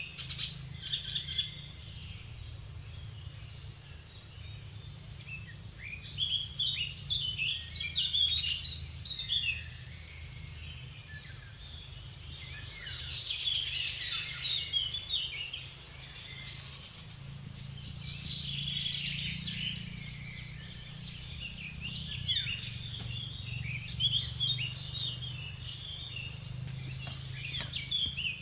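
Small birds chirping and twittering in busy bursts that come and go, over a steady low rumble.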